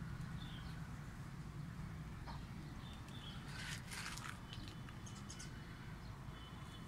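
Birds chirping outdoors: a few short, high calls scattered through, with a brief harsh burst of noise about halfway through, over a steady low background rumble.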